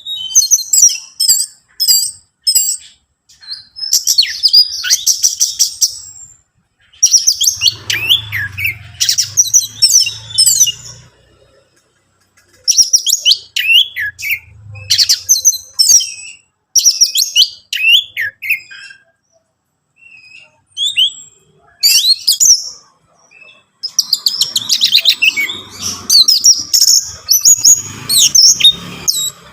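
Orange-headed thrush (anis merah) singing: bursts of quick, varied high phrases, each a second or two long, with short pauses between them.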